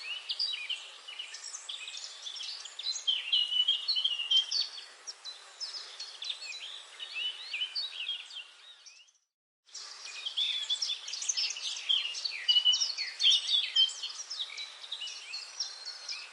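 Dense chorus of many birds chirping and trilling together over a soft steady background hiss. About nine seconds in, it fades out to silence for under a second, then starts again abruptly.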